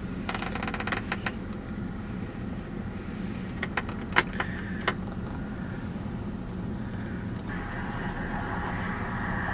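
A vehicle driving, heard as a steady low engine and road drone with a few small clicks and rattles. A hiss of road or wind noise grows louder about seven and a half seconds in.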